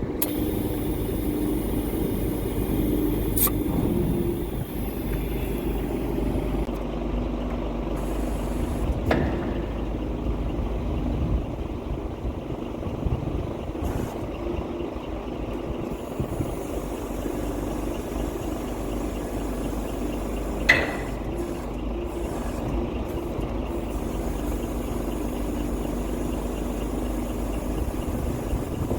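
A steady low mechanical drone, like an engine running, with one short sharp click about two-thirds of the way through.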